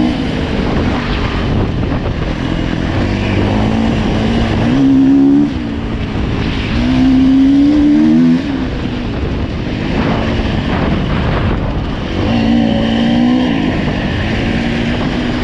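Single-cylinder four-stroke engine of a Husqvarna FE 350 enduro dirt bike being ridden, its revs rising and falling as the throttle is worked. There are three longer pulls, about five, seven and twelve seconds in, each rising in pitch and cut off sharply as the throttle is shut.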